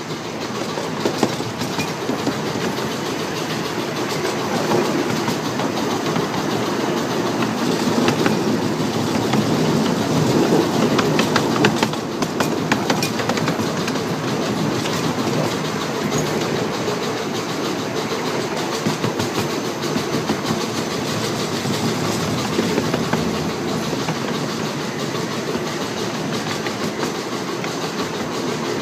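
Small-gauge steam train running along the track: a steady rumble of the cars with wheels clicking over the rail joints, a little louder for a few seconds near the middle.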